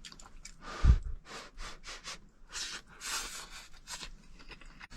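A spoon scooping and scraping rice in a claypot, with a knock about a second in, then a run of short scratchy strokes.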